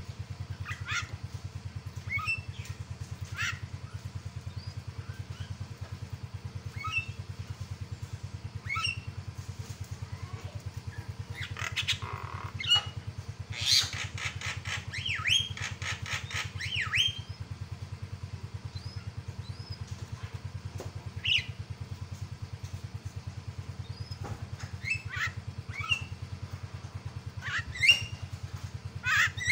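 Javan myna (jalak kebo) giving short, sharp squawks and whistled calls that sweep up or down in pitch, spaced a second or two apart with a dense run of calls midway. A steady low buzz runs underneath throughout.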